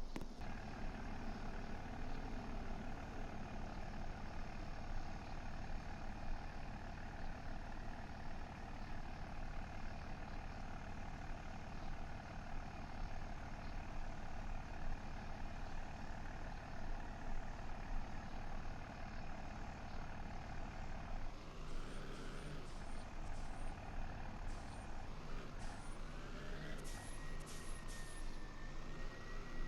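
A truck engine running steadily. About two-thirds of the way in the sound shifts, with light high ticks and a whine that rises and then holds steady near the end.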